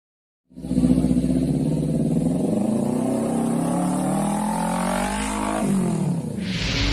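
Kawasaki Ninja 250 parallel-twin engine through a short SC Project aftermarket exhaust, starting up loud about half a second in, its pitch climbing steadily for about five seconds, then dropping sharply. A burst of hiss comes in near the end.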